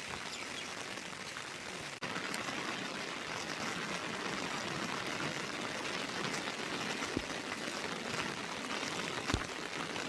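Steady heavy rain, an even hiss of falling drops, which gets louder after a sudden break about two seconds in. There are a couple of dull low thuds near the end.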